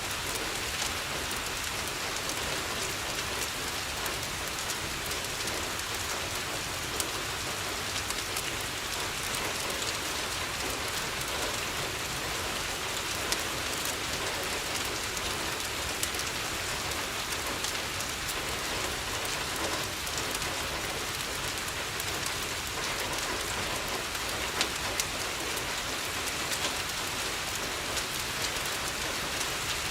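Steady rain falling against a window, with a wood fire crackling: an even hiss dotted with small sharp pops, a few of them louder.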